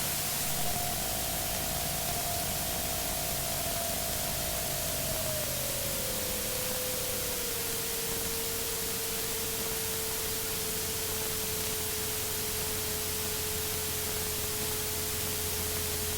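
Steady hiss of light-aircraft cockpit audio with the Remos GX's Rotax 912 engine drone underneath; the engine tone slides down in pitch about five to eight seconds in as power is pulled back on final approach, then holds steady at the lower note.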